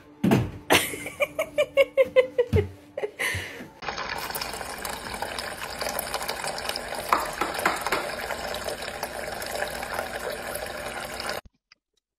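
Water running steadily, like a tap or dispenser filling, for about seven seconds, then cutting off suddenly. Before it, a short run of loud rhythmic pulses with a falling pitched tone.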